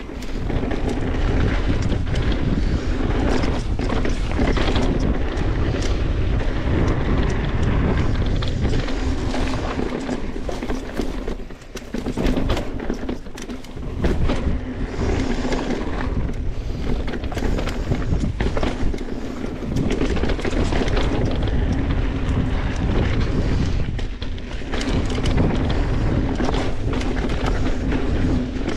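Wind buffeting the microphone and a mountain bike's tyres rolling fast over a dirt trail, with rattles and knocks from the bike over bumps; it eases briefly about twelve seconds in.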